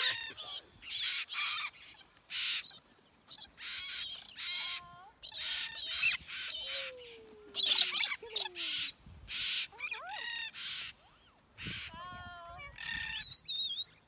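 Cockatoos screeching over and over, short rasping screams about once a second, with a few thin gliding whistle calls from other parrots in between.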